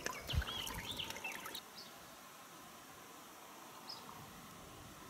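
Small birds chirping, with a low knock under the chirps early on. About a second and a half in, the sound drops suddenly to a faint steady hiss, broken once by a single short chirp near the end.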